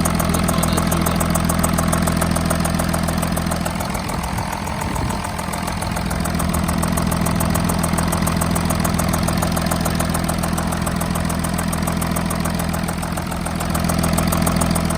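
Audi A7 3.0 TDI V6 diesel idling with a rapid, even ticking over the engine note. The tap comes from a blown-through copper sealing washer under one injector.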